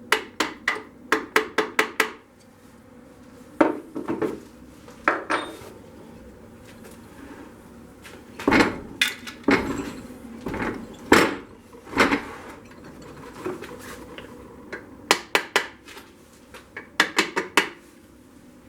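Metal tools clinking and knocking on metal in quick runs of light taps, with single louder knocks in between.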